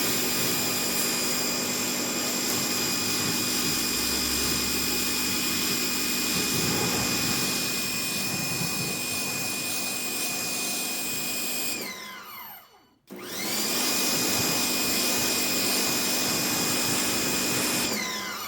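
Sun Joe SPX4004-MAX electric pressure washer running with a loud, steady motor whine. About twelve seconds in, the whine falls in pitch and winds down to a stop, then starts straight back up, and it winds down again near the end. It is a lot louder than the Adams unit and slow to turn on and off.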